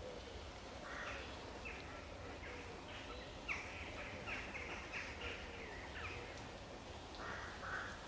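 Birds calling outdoors: a run of short, harsh notes repeated many times, densest in the middle of the stretch, over a low steady rumble.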